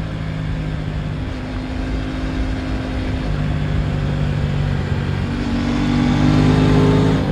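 Aprilia RS 660's parallel-twin engine under way, its note shifting in steps a few times and getting louder toward the end.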